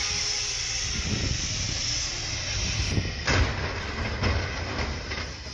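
Blizzard wind blowing hard: a steady hiss of wind-driven snow over low, gusting buffeting on the microphone.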